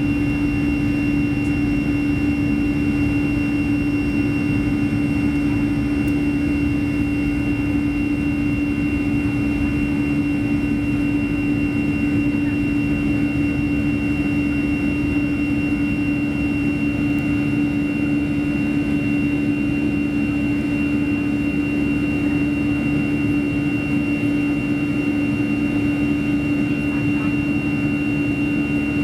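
Boeing 737-300's CFM56-3 turbofan engines running steadily, heard from inside the cabin: an even drone with a strong low hum and a high whine, both held at one pitch.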